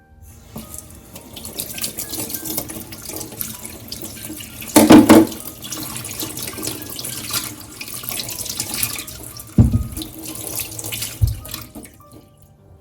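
Water running from a tap into a sink, with a louder gush about five seconds in. Two short knocks come near the end, and the water stops just before the close.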